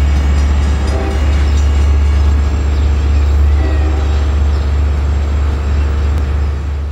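Long Island Rail Road diesel locomotive pulling its train away, a loud, steady low rumble with track and wheel noise above it.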